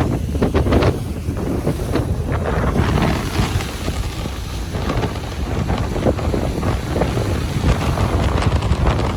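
Ocean surf washing on a beach, with strong wind buffeting the microphone: a steady low rumble under a rough hiss of water.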